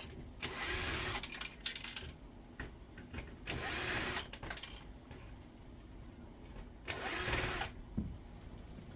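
Power drill with a hex bit running in short bursts, three times, each under a second, backing out screws, with light clicks of handling between the bursts.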